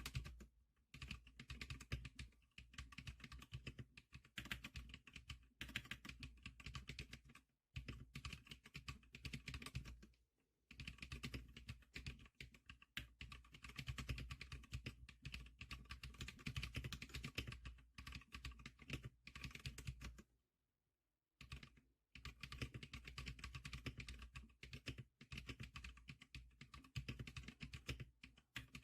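Typing on a 지클릭커 SPK100 computer keyboard: fast, steady runs of key clicks broken by short pauses, with one break of about a second roughly two-thirds of the way through.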